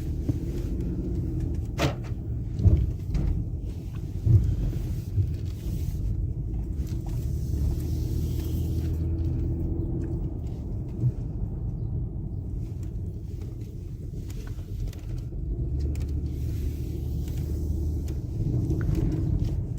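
Car being driven: a steady low rumble of engine and road noise, with a few knocks in the first five seconds.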